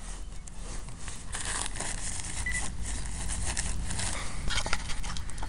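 Rustling and scuffing handling noise with scattered clicks, and one short high beep about two and a half seconds in.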